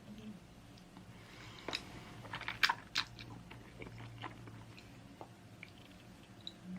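Close-up eating sounds: chewing with a cluster of small sharp clicks and taps, the loudest a little under three seconds in, then scattered softer ticks.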